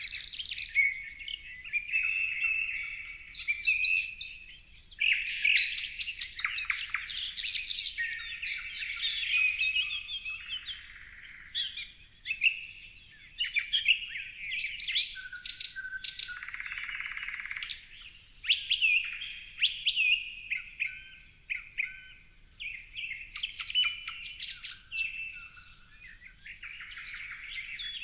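Many birds chirping and singing at once: a dense, unbroken chorus of overlapping high calls, short gliding whistles and quick chips.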